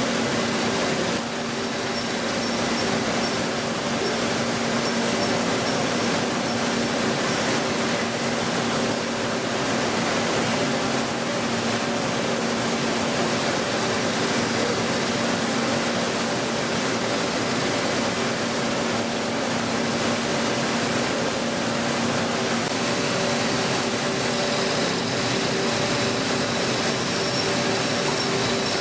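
CNC machine tool running: a steady mechanical whir and rushing noise with several steady hum tones underneath, joined by a faint high whine about 24 seconds in.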